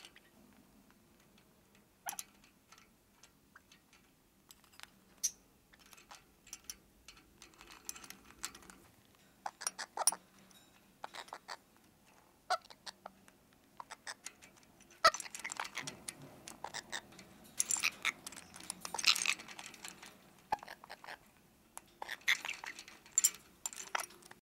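Cape parrot working over a wooden and plastic cage toy with its beak: irregular sharp clicks, cracks and clatter of chewed and knocked toy pieces, sparse at first and coming in busy flurries in the second half.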